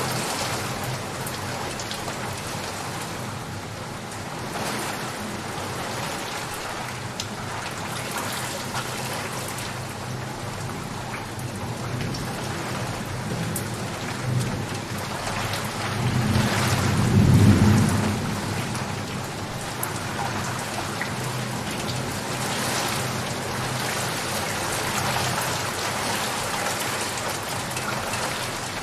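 Steady rain falling, with a low roll of thunder that swells and fades a little past halfway through, the loudest moment.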